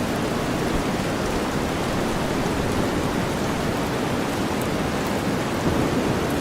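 Steady rain blended with deep white noise: a constant, even hiss weighted toward the low end, with faint drop ticks above it.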